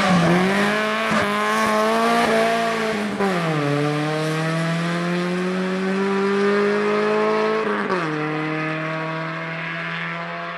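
Fiat Tipo 2.0 16V's four-cylinder engine racing at full throttle, climbing through the revs in each gear, with upshifts near the start, about three and a half seconds in and about eight seconds in. It fades slowly as the car pulls away.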